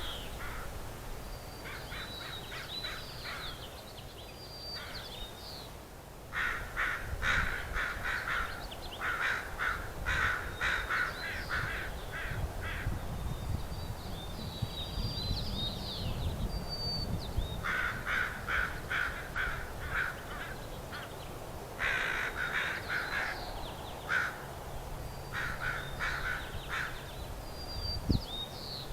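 Birds calling outdoors: bursts of short, harsh calls repeated several times a second, in runs of a few seconds, with thin high chirps between them.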